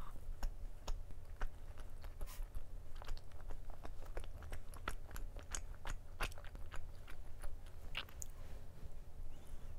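A person chewing a chocolate-filled glutinous rice cake (chapssaltteok) close to the microphone: many small wet mouth clicks and smacks at an irregular pace. The chewy rice cake is spread with chocolate syrup.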